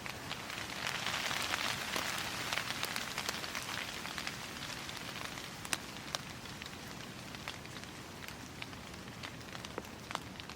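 Steady rain falling, heaviest about one to three seconds in, with scattered sharp ticks of drops landing close by.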